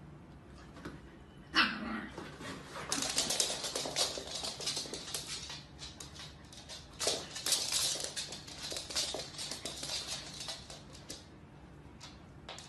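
Dogs yipping and barking as they play. There is a sharp yip about a second and a half in, then a busy stretch of quick yaps from about three to eleven seconds.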